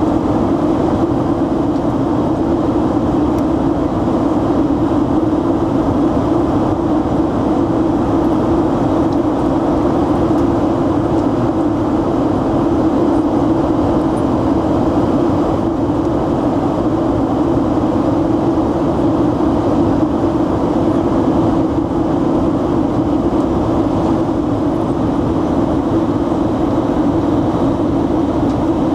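Steady cabin noise of a jet airliner in flight: an even rush of engine and airflow noise with a strong low hum, unchanging throughout.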